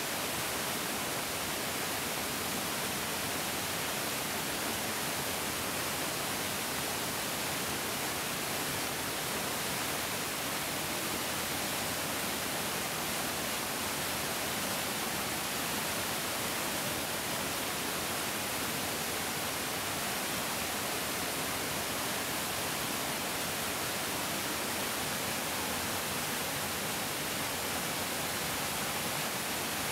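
Large mountain stream rushing over rocks: a steady, dense hiss of flowing water with no change in level.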